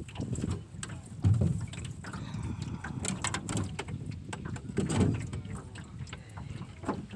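Gear-handling noise: irregular clicks and knocks with a few heavier low thumps, the loudest about a second in and again about five seconds in.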